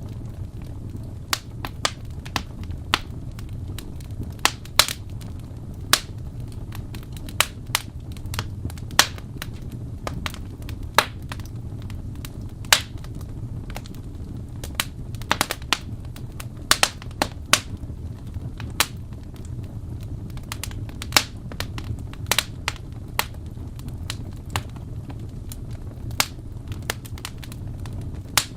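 Wood fire crackling in a fireplace: irregular sharp pops and snaps, several a second at times, over a steady low rumble of the burning logs.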